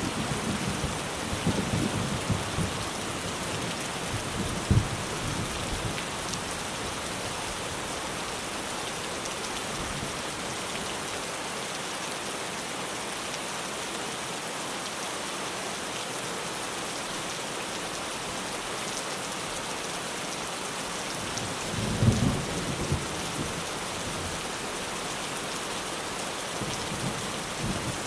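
Steady rain drumming on a tin roof, with thunder rumbling. A roll of thunder dies away over the first few seconds, and another rumble breaks about 22 seconds in.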